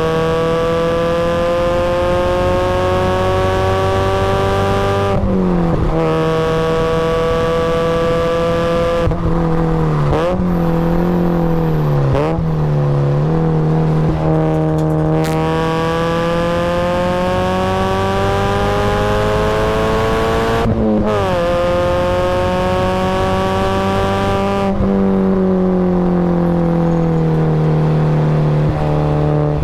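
Supercharged Mazda Miata's four-cylinder engine run hard on a race track, climbing in pitch through each gear and dropping sharply at upshifts about five and twenty-one seconds in. Around ten to fourteen seconds, and again near twenty-five seconds, the pitch falls and wavers as it slows for corners and shifts down.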